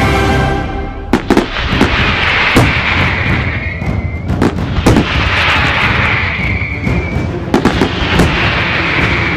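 Fireworks going off: a string of sharp bangs at irregular intervals, mixed with three long hissing whistles that each narrow to a single tone and cut off. Music fades out in the first second.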